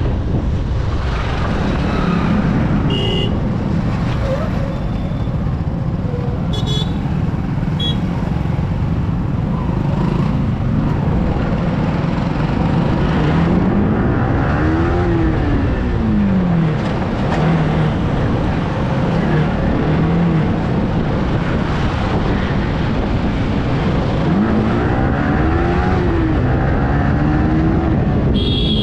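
Yamaha R15 V3 motorcycle's 155 cc single-cylinder engine running on the road, with wind rushing over the microphone. Twice, about halfway through and near the end, the engine note rises and falls as the throttle is opened and eased off.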